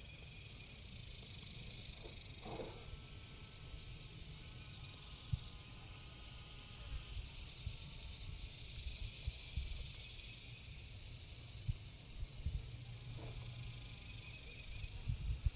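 Faint outdoor farm ambience: a steady low rumble and hiss, with a short animal call about two and a half seconds in and another near the end.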